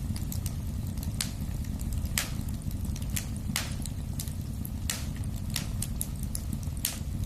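Wood fire burning in a fireplace: a steady low rumble of the flames with irregular sharp crackles and pops from the burning logs, a handful of them louder than the rest.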